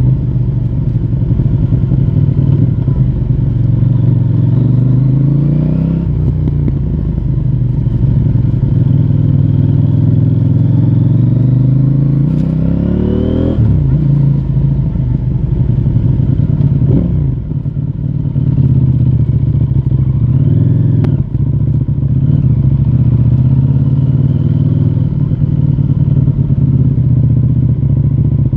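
CFMoto 800NK Advanced motorcycle's 799 cc parallel-twin engine through its stock exhaust, under way. The revs climb and drop several times as it pulls and changes gear, with a sharp drop about halfway through and quick dips and recoveries a few seconds later, then a steadier cruise.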